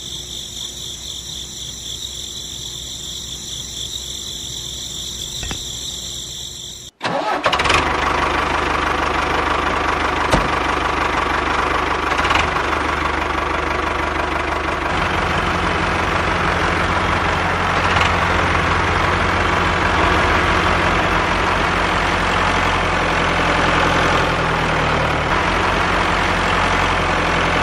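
A high, steady motor whine for about seven seconds, then an abrupt cut to a louder, steady engine-like running sound with a low rhythmic chug.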